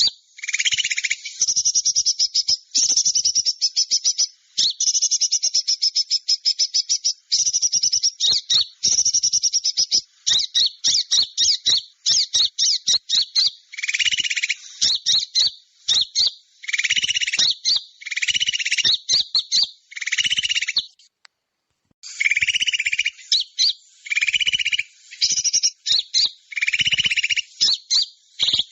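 Bird-lure recording of small birds calling: fast, high chattering trills in bursts of one to two seconds, some joined by a lower buzzing note. There is a brief break about 21 seconds in.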